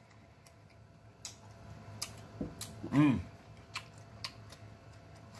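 Close-miked mouth sounds of a man chewing cantaloupe: scattered wet lip smacks and clicks, with a brief hummed "mm" about three seconds in.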